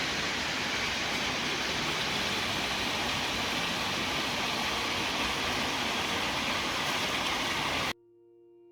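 Steady rushing noise of falling water, like a waterfall or fast creek, cutting off suddenly near the end; faint music comes in after it.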